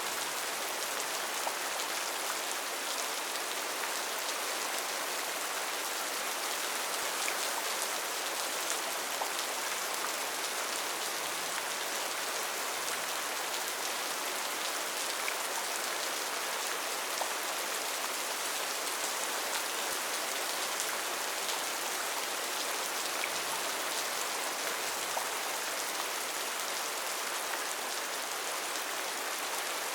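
Steady rainforest rain: an even hiss of rainfall with scattered individual drops pattering on leaves and surfaces.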